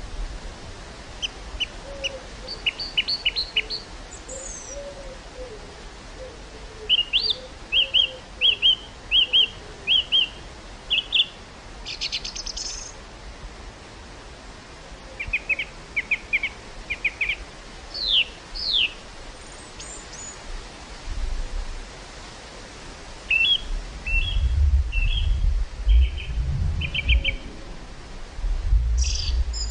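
Small birds singing in short, repeated chirping phrases over a steady outdoor hiss. In the second half, gusts of wind rumble on the microphone, louder than the birds.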